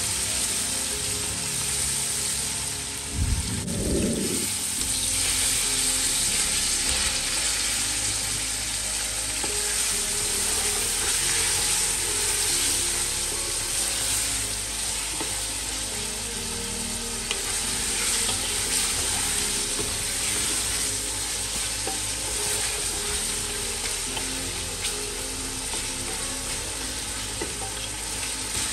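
Onions, tomatoes and chicken pieces sizzling in hot oil in an aluminium pressure cooker, stirred and scraped with a wooden spoon; a steady frying hiss, with one low thud about three seconds in.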